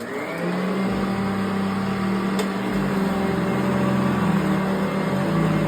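A 1992 Eureka ESP upright vacuum cleaner switched on: its motor whine rises as it spins up in the first half second, then the motor runs steadily with a constant hum. One light click about two and a half seconds in.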